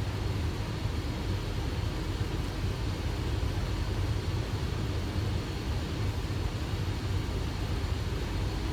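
Steady flight-deck noise of a Boeing 737 on final approach: a low rumble of airflow and engines, with a faint steady high whine.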